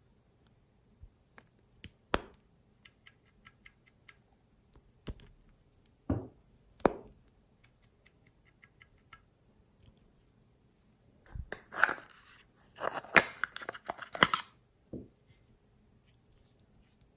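Slime being handled and pressed: scattered sticky clicks and pops, then a dense burst of crackling that lasts about three seconds.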